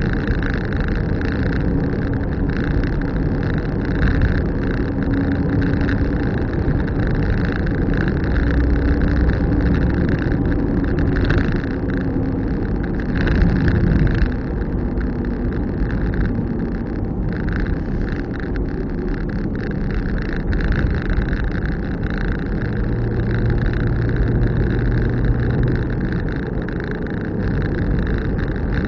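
Car driving along a road: steady engine and road noise, with the engine note shifting a few times.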